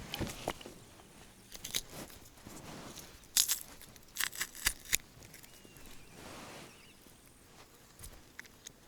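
Handling noises: scattered sharp clicks and short crackling rustles, loudest in a cluster about three and a half seconds in and another between four and five seconds.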